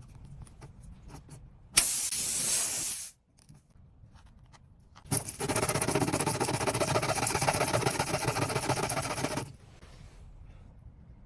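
Air hissing in two spells during a tire puncture repair: a sudden burst of about a second, then after a pause a longer run of about four seconds with a rapid fluttering buzz in it.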